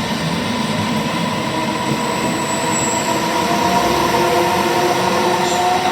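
Electric train running through the station: a steady rumble of wheels on rails with a few whining motor tones held under it, and a brief high squeal about three seconds in.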